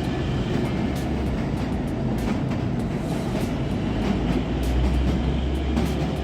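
Narrow-gauge Kalka–Shimla toy train running through a long tunnel: a steady low rumble of the carriage and wheels on the rails, with scattered sharp clicks.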